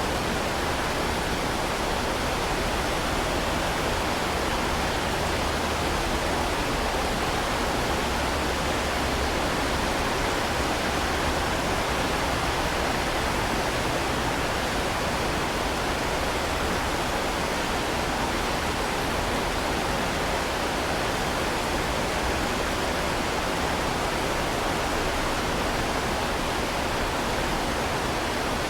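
Heavy rain falling steadily, a dense, even hiss with no single drops or thunder standing out.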